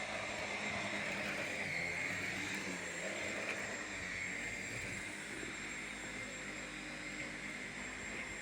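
Vacuum cleaner running steadily, a motor whine over an even rush of air.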